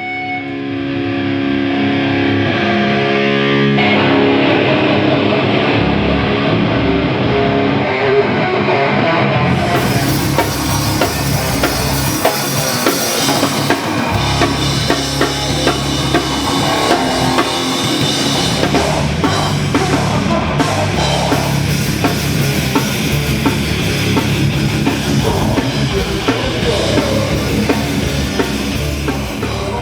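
Rock music: held notes for the first few seconds, then the full band with drum kit, bass and guitar comes in about four seconds in, getting louder and brighter about ten seconds in.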